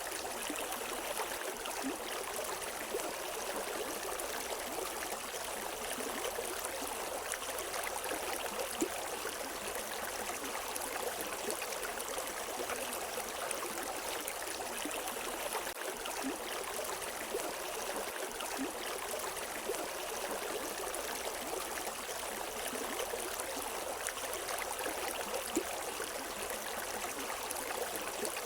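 River water flowing over rocks: a steady rushing and splashing, with small trickles and drips.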